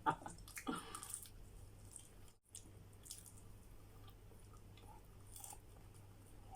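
Faint eating sounds: soft mouth and chewing noises with a few small clicks while eating pizza, cut by a brief total dropout about two and a half seconds in.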